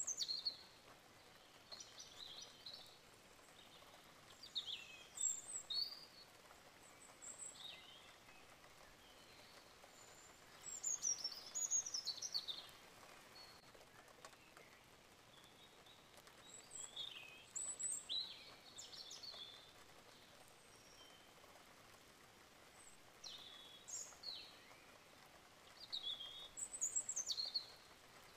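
Birds chirping: short, high twittering phrases with quick rises and falls in pitch, coming every few seconds over a faint steady hiss.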